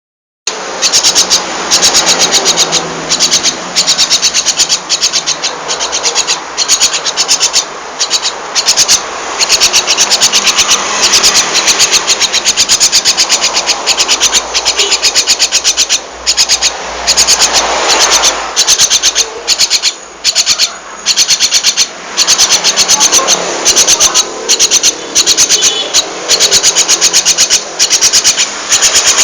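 A young jalak starling chattering continuously: a rapid, harsh, rasping run of notes that goes on with only a few brief pauses.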